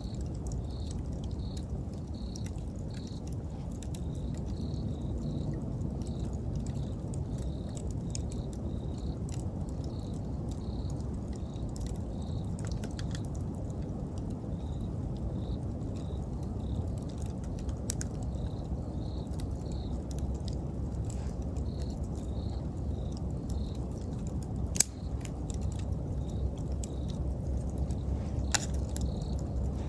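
Wood fire crackling with scattered sharp pops over a low, steady rumble; one pop about 25 seconds in is much louder than the rest. An insect chirps steadily at an even pace throughout.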